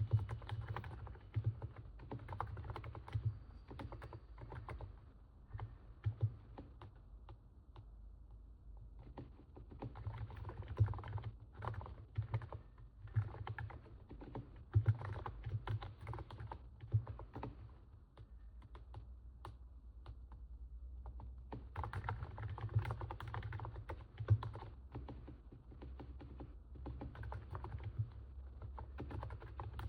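Typing on a NIZ 68 Pro electro-capacitive keyboard: runs of soft, rapid keystrokes, a sound likened to stepping on snow. The typing thins out twice, about a third and about two thirds of the way through.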